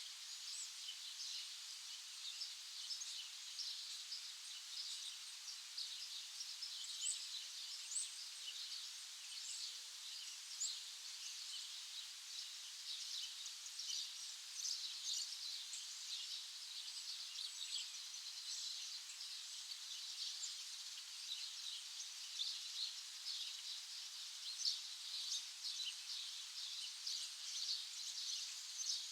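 Birds chirping in a dense, continuous chorus of short, high calls.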